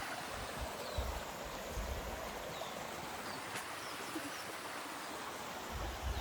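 Steady rush of splashing stream water, with a few faint, short, high chirps.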